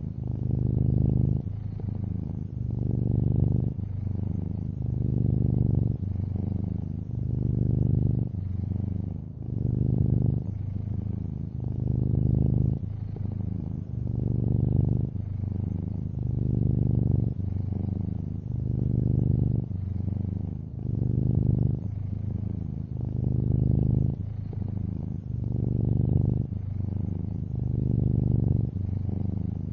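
Long-haired orange tabby cat purring steadily, a low rumble that swells and softens in an even rhythm about every two seconds as the cat breathes in and out.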